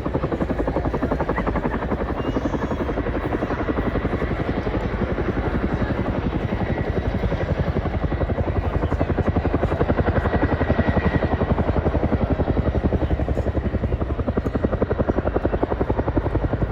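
Helicopter rotor chopping with a rapid, even pulse, loud and steady.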